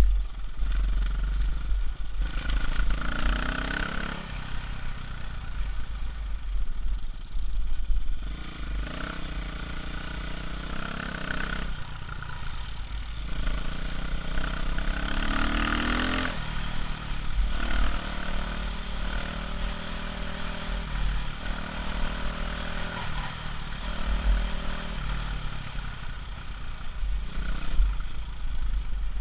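Off-road engine of an enduro motorcycle or quad revving up and down over and over as it is ridden over rough ground, with a heavy low rumble underneath.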